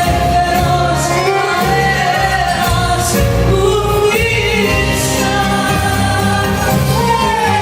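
Live performance of a Greek popular song: a band playing with a steady bass line while a voice sings the melody.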